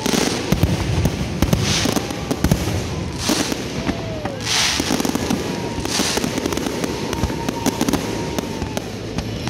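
Fireworks display: a dense run of shell bursts and crackling bangs over and over, with bursts of hissing every second or so and a few thin whistling tones in the second half.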